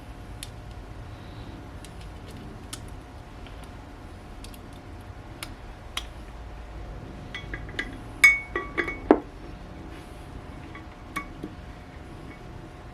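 Scattered sharp metallic clinks of hand tools and metal hub parts being handled, with a quick cluster of louder ringing clinks about eight seconds in, over a faint steady hum.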